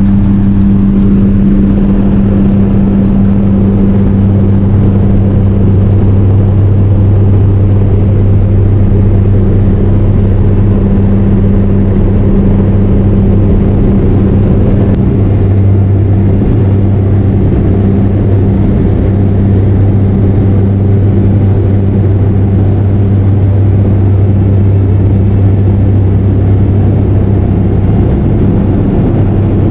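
Turboprop engine and propeller of a de Havilland DHC-3 Turbo Otter floatplane running steadily, heard from inside the cabin: a loud, even, low drone with a strong low pitched hum that holds without change.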